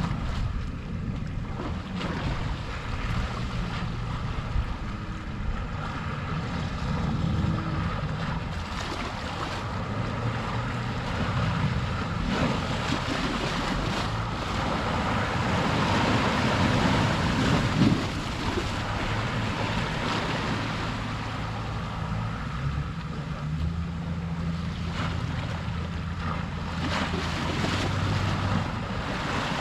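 Sea waves washing ashore, with wind rumbling on the microphone; the wash swells louder a little past the middle.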